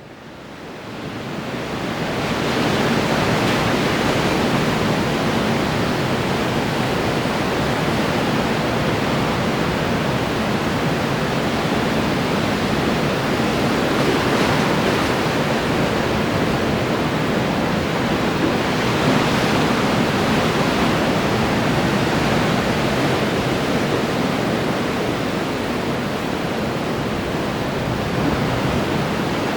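Ocean surf breaking and washing on the shore, an unbroken rush of waves with gentle rises and falls, fading in over the first couple of seconds.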